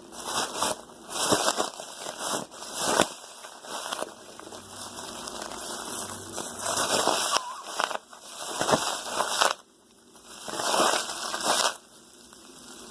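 Homemade squishy, a small plastic trash bag stuffed with cotton, crinkling and crackling as it is squeezed by hand in repeated bursts.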